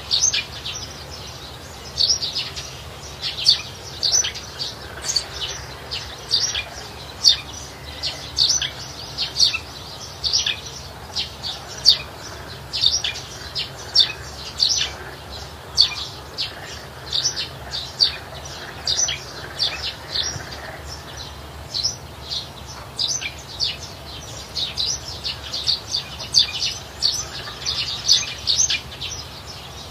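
Wild birds chirping: short, sharp, high chirps, some falling in pitch, repeated over and over in quick clusters.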